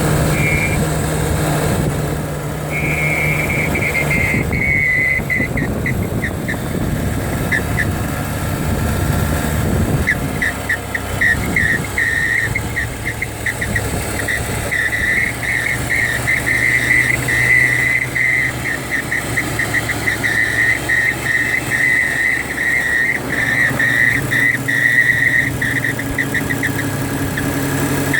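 Mercedes-Benz Vito van engine running with a high-pitched squeak that comes in rapid chirps, off and on at first and near-continuous in the second half. The squeak shows up at about 1400 rpm, and its source is unknown to the owner.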